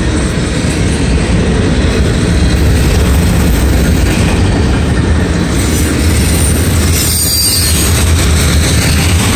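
Cars of a mixed manifest freight train, refrigerator cars, covered hoppers and boxcars, rolling past at close range: a steady, loud rumble of steel wheels on the rails.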